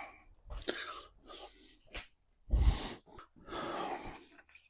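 Handling noises as things are moved and set aside: scattered rustling, a sharp click about two seconds in, and a loud thump just after it.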